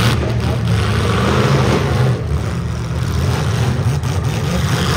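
Loud, heavily modified full-size demolition derby cars' engines running, a steady low rumble.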